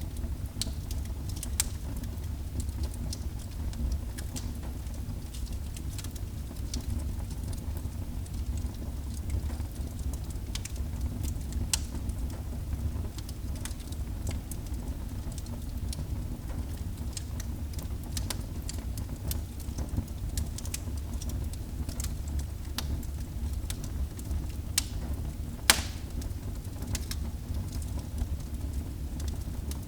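Wood fire burning in a fireplace: a steady low rumble of flame with scattered sharp crackles and snaps, and one louder pop near the end.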